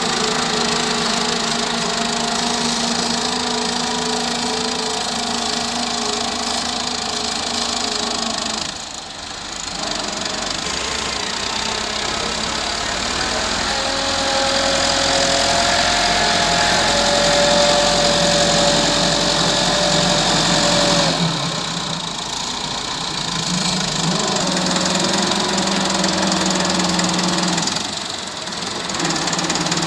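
Massey Ferguson 385 tractor's diesel engine running hard while it works a front blade. Its pitch shifts as the load changes, with a higher whine for several seconds in the middle and short dips in level about nine seconds in and near the end.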